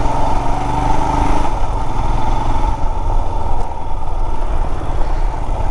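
Motorcycle engine running steadily as the bike is ridden along a rough dirt trail.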